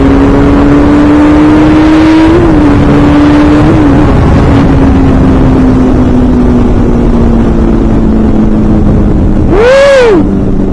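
Honda CBR600 F4i inline-four sport bike under hard acceleration at highway speed, with heavy wind rush. The engine note climbs and breaks briefly at two quick upshifts in the first few seconds, then holds nearly steady toward triple-digit speed. A short tone rises and falls near the end.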